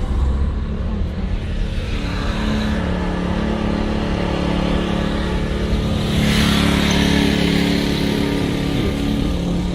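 Car engine running steadily with tyre and road noise, and a louder rushing swell about six seconds in.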